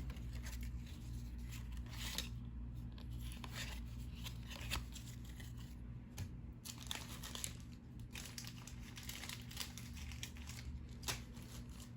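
Paper rustling and crinkling from trading cards and pack wrappers being handled and sorted, in short irregular rustles over a steady low hum.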